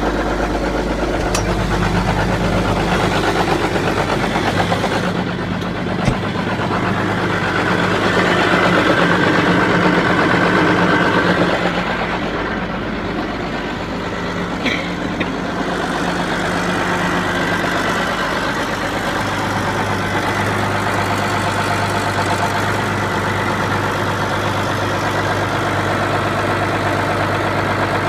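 Case IH MXM 190 tractor's diesel engine idling steadily just after a below-freezing cold start on ether, warming up; the engine sound swells briefly about a third of the way in, then settles.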